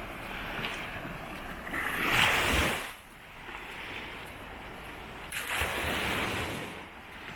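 Sea waves breaking on the beach and washing up the shore, with one loud surge about two seconds in and another building from about five and a half seconds. Wind buffets the microphone.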